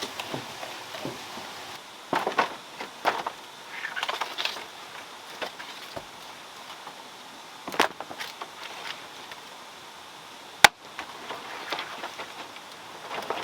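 Irregular knocks and short scrapes, with one sharp click about eleven seconds in.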